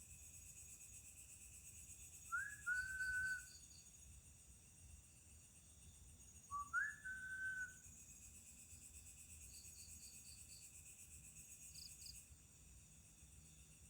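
Two whistled notes, each a quick upward slide into a held steady tone about a second long, the second a few seconds after the first. Under them runs a steady chorus of night insects with short rapid chirp trains.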